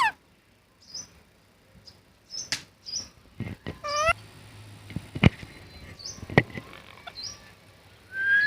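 Green parrot making a few short, high chirps and one longer call about four seconds in, with several sharp clicks in between.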